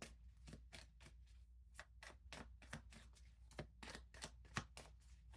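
Tarot cards being shuffled and handled by hand: faint, irregular flicks and taps of card against card, several a second.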